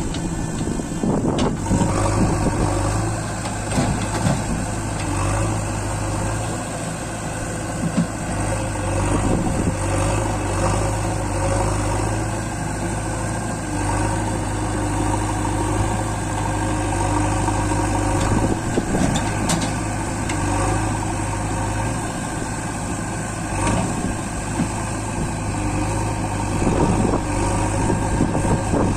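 Tractor diesel engine running steadily, a low even drone with no changes in speed.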